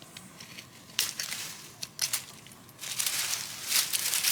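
Heavy wire cutters snipping the wires of a chain-link fence, with a sharp click about a second in and another about two seconds in, then a spell of crackling, crunching rustle.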